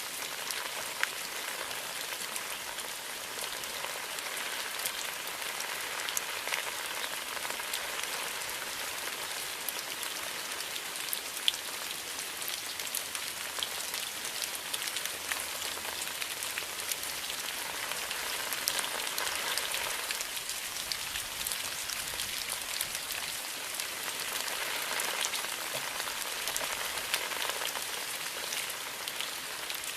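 Steady rain falling: a dense, even hiss with many separate drops ticking through it.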